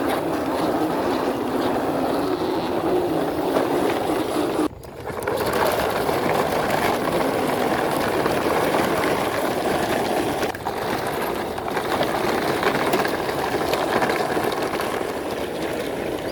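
Toy truck loaded with plastic toys rolling along, a steady rolling noise from its wheels, broken off briefly about five seconds in.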